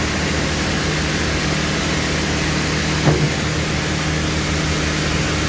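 Sawmill bandsaw machinery running with a steady hum, and a single short knock about three seconds in.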